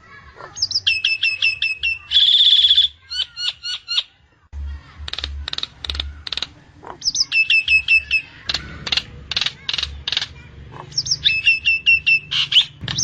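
Nias hill myna singing in repeated phrases: quick runs of short down-slurred whistles, a harsh buzzy note about two seconds in, and sharp clicking notes between.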